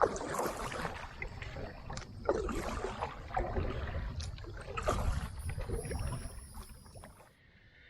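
Kayak paddle strokes dipping and splashing in the river water, repeated every second or two, over a low rumble of wind on the camera's built-in microphone. The sound falls away shortly before the end.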